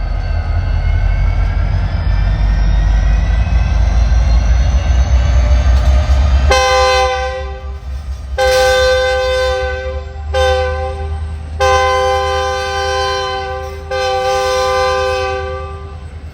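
Freight train's diesel locomotive working hard as it pulls out, its engine running louder and rising slowly in pitch. About six seconds in, its multi-tone air horn starts sounding five blasts, the third one short.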